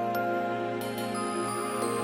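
Instrumental outro of a karaoke backing track: soft, gentle music with held chords and bright high notes, no singing.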